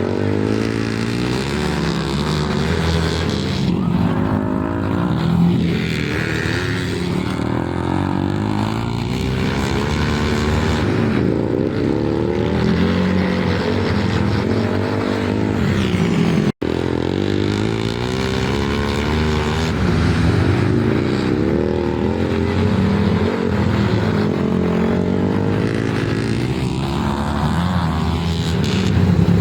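Several flat-track racing motorcycles running hard on a dirt oval, their engines revving up and down through the turns, with rising and falling engine notes as bikes pass. A brief break about halfway through.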